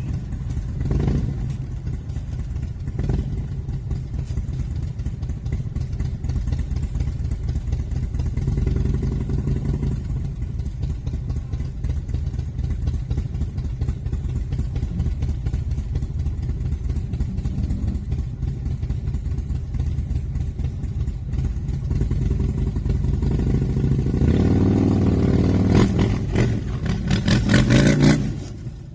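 A motor vehicle running steadily on the road, engine and road noise with no voices. It grows louder over the last few seconds, then drops off suddenly near the end.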